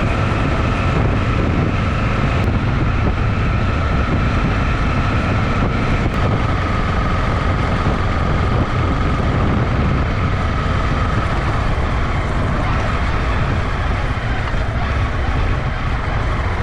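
Honda CB250R single-cylinder motorcycle engine running steadily while riding, mixed with a heavy rumble of wind on the microphone and a faint steady whine that sinks slightly in pitch.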